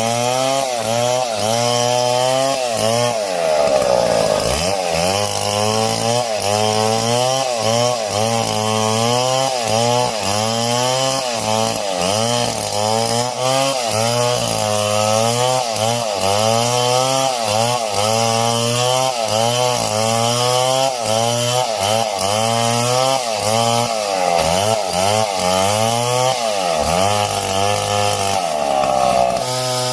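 Two-stroke chainsaw cutting wood at high revs. Its engine pitch rises and falls about once a second as the chain loads up in the cut, and it drops lower twice, around four seconds in and near the end.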